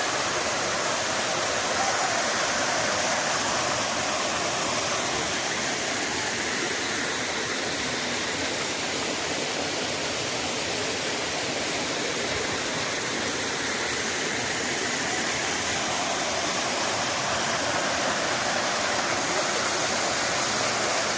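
Steady rush of a waterfall, an even hiss of falling water that holds level throughout.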